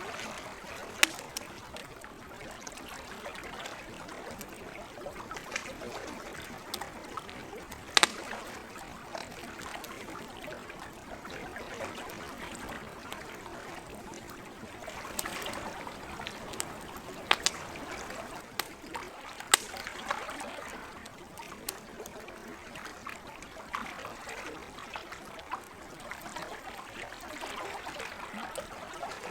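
A campfire crackling with scattered sharp pops, a few of them loud, over the steady lapping and trickling of lake water.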